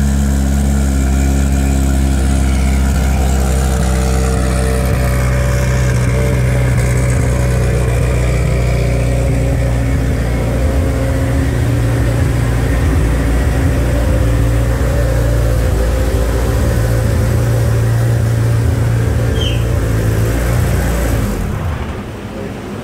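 Turbocharged Mitsubishi Lancer Evo race car engine running at a steady speed on a chassis dyno. The sound drops away sharply about a second before the end.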